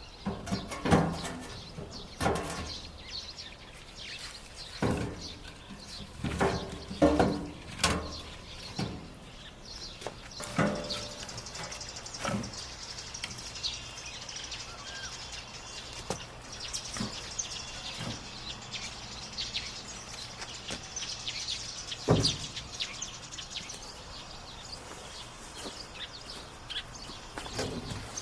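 Birds chirping, mixed with irregular knocks and clatters that are loudest and most frequent in the first dozen seconds, with one more sharp knock a little past the middle.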